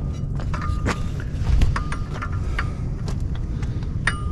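Irregular metallic clicks and clinks, some briefly ringing, from a wrench working the prop nut on an outboard's propeller shaft, with a steady low rumble underneath.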